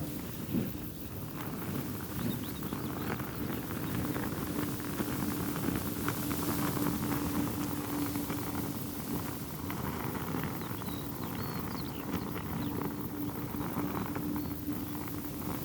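Lightweight silk veil flapping and fluttering rapidly in strong wind, with wind buffeting the microphone. It is a continuous rustling, rattling flutter, with a steady low hum underneath.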